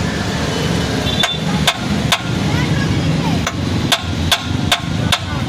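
Hammer striking metal: about eight sharp, ringing blows, spaced roughly half a second apart and starting about a second in, over a steady low background rumble.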